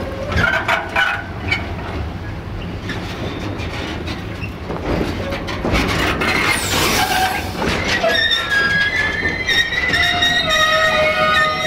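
Articulated container wagons of a freight train rolling past close by, their wheels clacking over the rail joints. From about eight seconds in, the wheels squeal on the rails, a high-pitched screech of several wavering tones.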